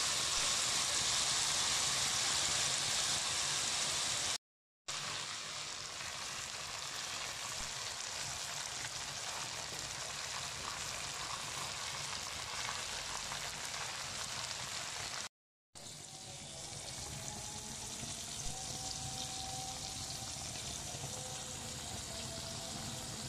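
Chicken pieces frying in an aluminium pot: a steady sizzling hiss, loudest in the first few seconds. It drops out to silence briefly twice, and after the second break the sizzle is softer, with tomato paste now in the pot.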